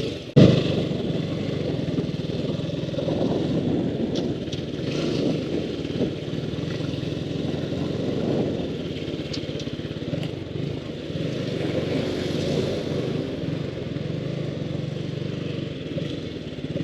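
Motorcycle engine running steadily while riding, with rushing wind noise over it. A single sharp thump just after the start is the loudest moment.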